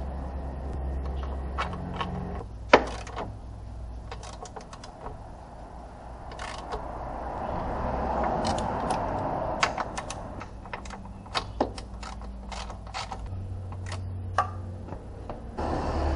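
Irregular metallic clicks, clinks and knocks of hands and tools working on metal parts, with one sharp knock about three seconds in and a stretch of rubbing or rustling in the middle, over a steady low hum.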